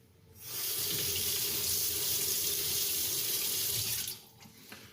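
Water running from a tap, rinsing a fine-grit aluminium oxide sharpening stone clean. The flow comes on steadily about a third of a second in and stops about four seconds in.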